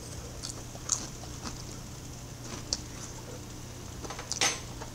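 A person chewing a mouthful of pan-fried potato, with a few soft, wet mouth clicks over a steady low hum.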